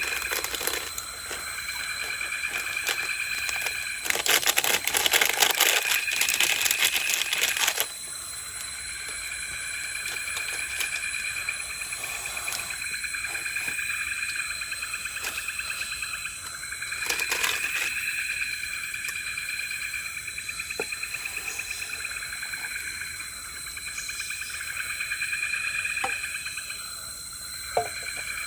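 Evening forest insect chorus: insects trilling in rippling phrases of a few seconds each over a steady high whine. A louder burst of crackling noise comes about four seconds in and lasts about four seconds, with a few small clicks later on.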